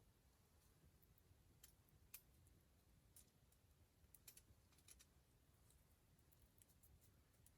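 Faint wood fire crackling: scattered small sharp pops and clicks at irregular intervals over a low, quiet background.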